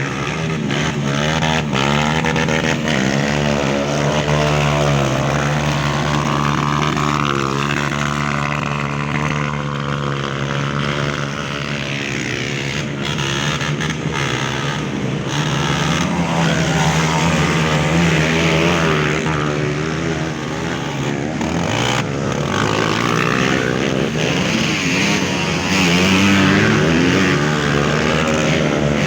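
Several off-road trail motorcycle engines running and revving, their pitch rising and falling over one another, above a steady low hum.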